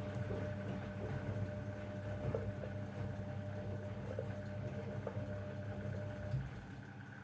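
Zanussi washing machine tumbling its load during the heating phase of a 90 °C wash: a steady motor hum with a thin whine and a few soft knocks from the drum. The drum stops near the end and the sound drops.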